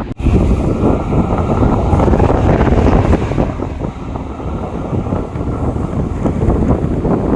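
Jet airliner taking off, a loud, steady rumbling engine noise that starts abruptly, with wind buffeting the microphone.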